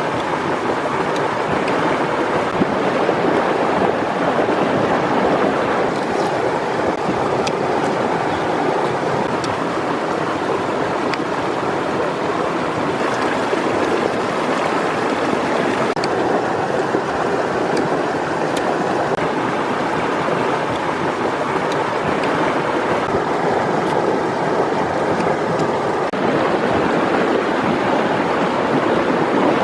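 Steady rushing noise of flowing water, with a few faint clicks.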